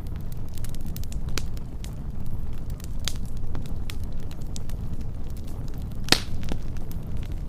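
Wood fire burning with a steady low rush and scattered sharp crackles and pops, one louder pop about six seconds in.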